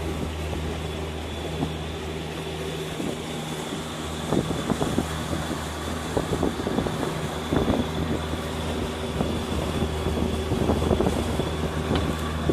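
Suzuki outboard motor running steadily on a boat, a low pitched drone with a faint high whine; the low drone dips for a few seconds in the middle and then comes back. Irregular short knocks and splashes sound over it.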